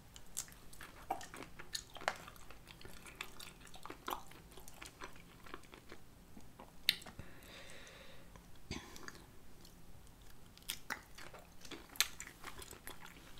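Close-miked chewing and wet mouth sounds of someone eating cocktail shrimp, with scattered short clicks and a few sharper ones.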